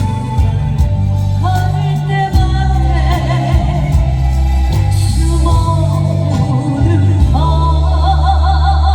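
A singer's voice carrying a melody with vibrato over a backing track with a strong, steady bass line.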